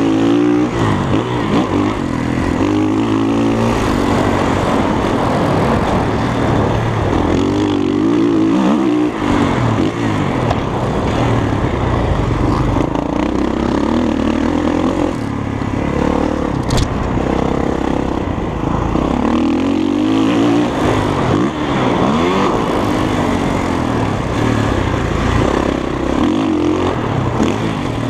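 Dirt bike engine revving up and down over and over while riding, the pitch climbing and dropping every few seconds, with a steady low rumble underneath.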